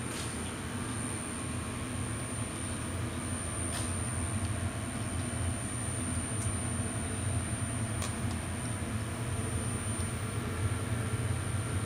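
Weiler 160 CNC lathe running steadily: a low machine hum with a thin high-pitched whine over it and a few faint ticks, the first about four seconds in and another about eight seconds in.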